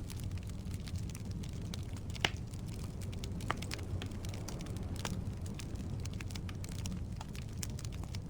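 Wood logs burning in a fireplace: a steady low rumble of flames with scattered crackles and pops, the sharpest pop a little over two seconds in.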